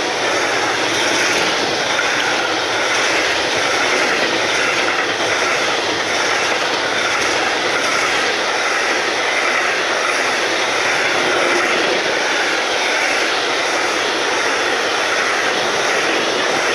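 Double-deck car-carrier wagons of an Autozug Sylt shuttle train rolling past close by: a loud, steady rushing of steel wheels on the rails.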